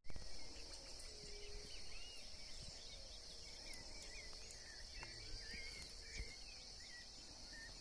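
Faint riverside ambience: a steady high insect buzz, with many short chirping calls scattered through it and a couple of soft knocks.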